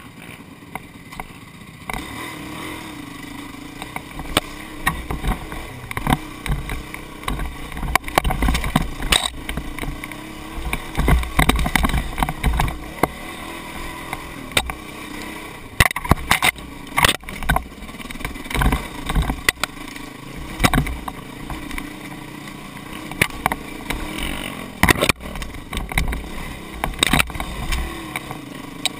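A vehicle engine running with wavering revs while driving a rough dirt trail, with frequent knocks and clatter from the bumps and a low rumble.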